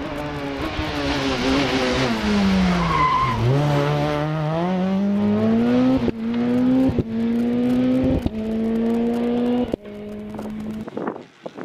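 Rally car's engine comes down under braking, with a brief tyre squeal at the slowest point. It then accelerates hard up through about four quick gear changes, the note climbing between each shift, before it cuts away and fades near the end.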